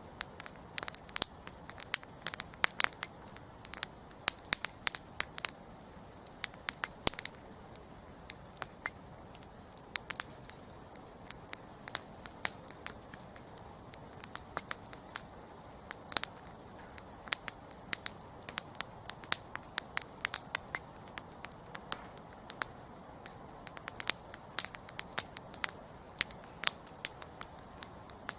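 Wood campfire crackling and popping in sharp, irregular snaps over a low steady hiss of burning.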